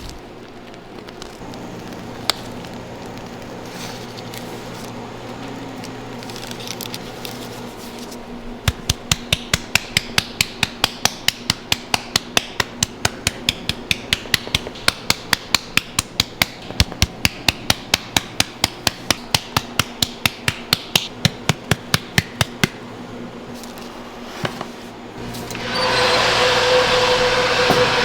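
A long run of sharp, evenly spaced knocks, about four a second, like repeated hammer strikes. Near the end a louder, steady machine noise starts.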